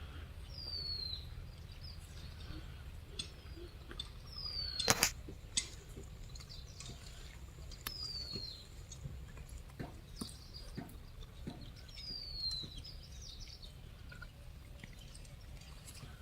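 A bird repeating a short, high, falling whistle about every four seconds, over a steady low rumble with scattered clicks and one sharp knock about five seconds in.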